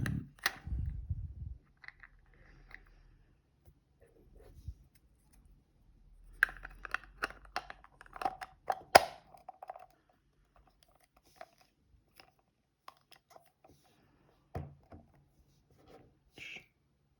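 Small plastic toy pieces being handled and fitted together: scattered clicks, rattles and light knocks, busiest in the middle with one sharp click about nine seconds in.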